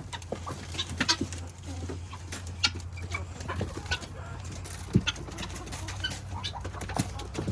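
Chickens clucking softly while feeding, with scattered short clicks and taps.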